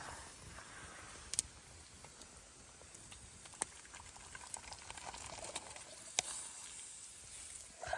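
Water bubbling at a boil, a steady bubbling hiss with three sharp pops spread through it.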